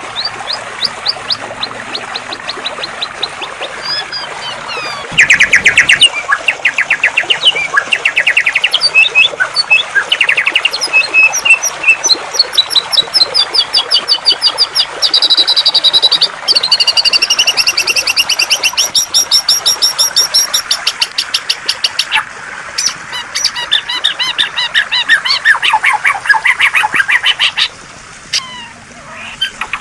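Songbird song in rapid trills and fast runs of repeated chirps, much louder from about five seconds in, over a steady hiss of flowing water.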